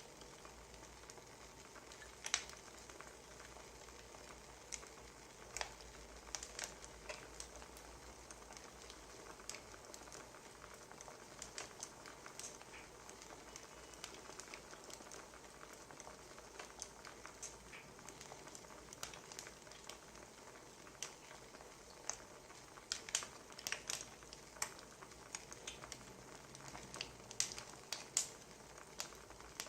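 Wood fire crackling, with irregular sharp pops and snaps over a soft steady hiss, the pops coming more thickly near the end.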